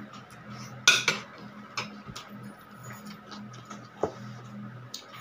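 Eating utensils clinking against a plate: a few scattered sharp clinks and taps, the loudest about a second in, over a steady low hum.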